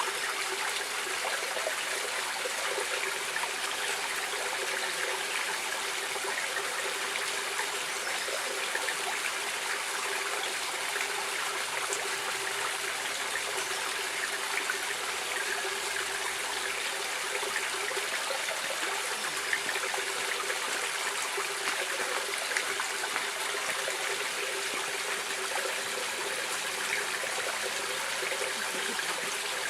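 A stream of water running and trickling, a steady unbroken rush with no changes.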